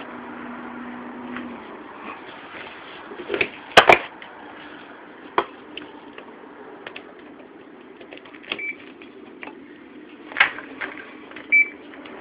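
Room air conditioner running with a steady hum, with sharp clicks and knocks about four seconds in and a few fainter clicks later. Two short high beeps come near the end.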